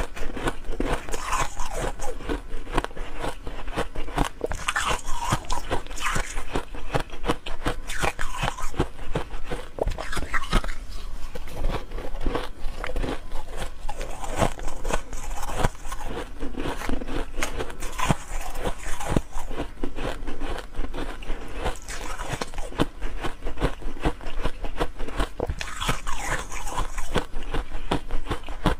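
A person biting and chewing ice cubes, a continuous run of sharp cracks and crunches close to the microphone.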